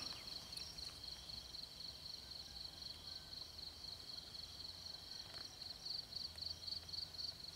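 Insects chirring outdoors: a steady, fast-pulsing high-pitched trill that runs on without a break.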